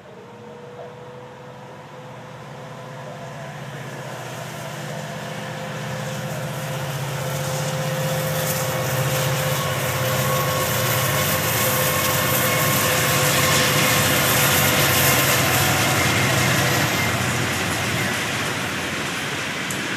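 Norfolk Southern diesel-electric freight locomotives working hard under load, their engines growing steadily louder as they approach and pass. From about halfway through there is rumble and clatter of loaded hopper cars rolling on the rails.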